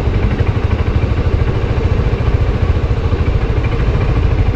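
Suzuki Burgman 400 maxi-scooter's single-cylinder engine running steadily at low speed, a deep even rumble.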